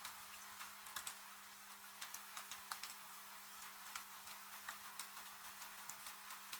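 Wood fire crackling with irregular sharp pops, several a second, over a steady hiss of rain. A faint steady low hum runs underneath.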